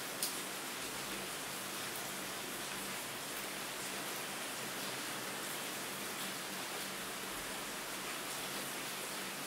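Steady rain, an even hiss with scattered drop ticks through it and one slightly louder tick just after the start.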